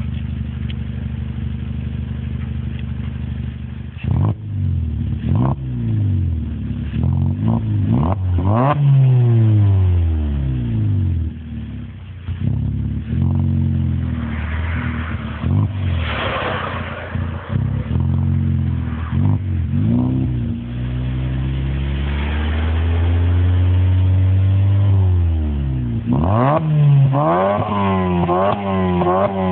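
Volkswagen Golf Mk5's 2.0 FSI direct-injection four-cylinder petrol engine idling steadily, then revved in a series of quick throttle blips with revs rising and falling sharply. The revs are held steadier for a while in the middle, and a rapid run of short blips comes near the end.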